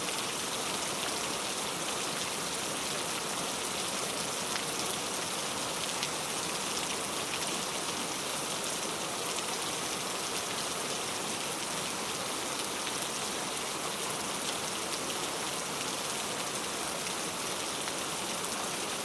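Steady rain falling: a dense, even hiss with fine scattered drop ticks.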